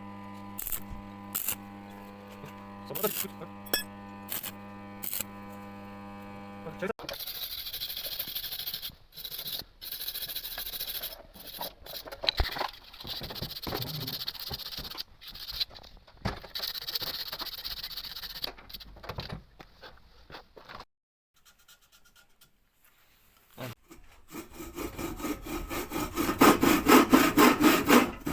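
Metalworking on a sword blade in stages: a steady motor hum with sharp knocks, then a long spell of uneven scraping on the metal. After a brief near-silent pause, fast, loud rhythmic strokes of a hand saw or file on the steel begin near the end.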